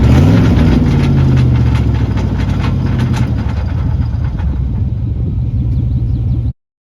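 A truck's 5.0-liter Vortec V8 through a custom exhaust, revving up over the first second, then running steadily and easing off. The sound cuts off suddenly near the end.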